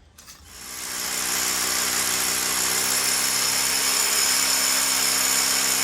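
An electric power tool's motor spinning up over about a second, then running steadily with a whirring hum and hiss.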